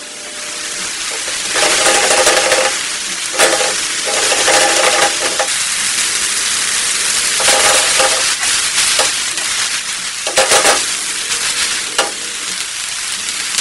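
Baby corn, mushrooms and sweet corn sizzling in butter or oil in a steel wok over a high gas flame. The hiss builds about a second in, and four or five bouts of stirring scrape and clink against the metal pan.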